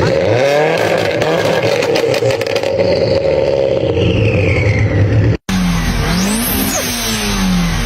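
Car engine and exhaust: a steady engine note with a rapid run of crackles and pops in the first few seconds. After a cut about five seconds in, the engine pitch dips and rises again twice, as in revving.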